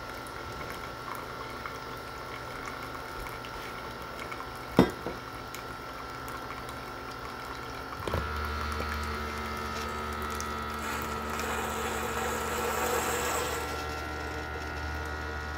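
Keurig K-Mini single-serve coffee maker brewing, its pump running as hot coffee trickles into the mug, with one sharp knock about five seconds in. About eight seconds in the pump hum gets louder, and a hissing sputter follows as the brew cycle finishes.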